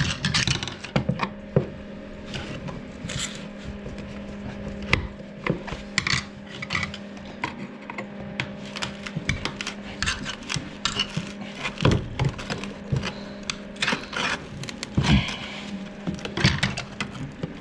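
Hand tools knocking, clicking and scraping irregularly against a screwed-down toilet pan and its fixings while it is worked loose, over a steady low hum.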